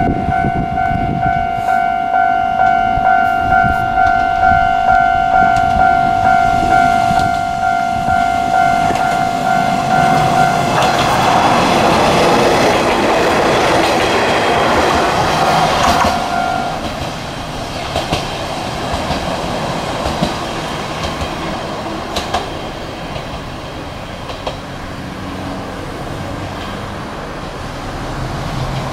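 A Japanese level-crossing warning bell rings in a steady, evenly repeating two-tone ding. Then a Kanto Railway Jōsō Line diesel railcar runs past close by with a loud rush and wheel clatter from about 11 to 17 seconds in, and the bell stops as it goes. Afterwards the railcar's running sound carries on more quietly, with a few sharp clicks from the wheels.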